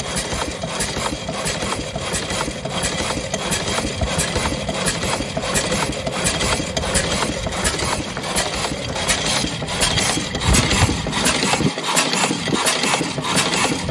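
1901 Curved Dash Oldsmobile's single-cylinder engine, warmed up and idling slowly, its firing strokes coming as an even, regular beat, with the spark retarded to bring the speed down.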